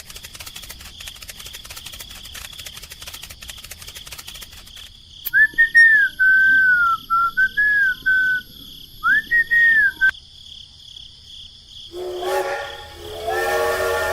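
A fast, even rattling buzz, then a high whistle gliding up and down through several notes, then a horn-like chord of several tones starting about twelve seconds in.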